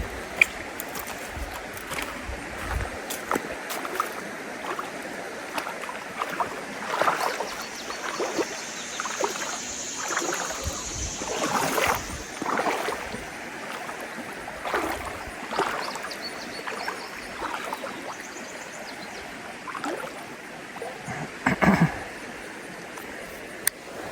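Creek water running, with irregular sloshing and splashing through it.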